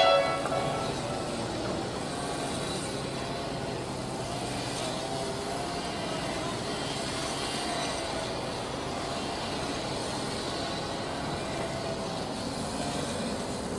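Heavy diesel machinery running steadily.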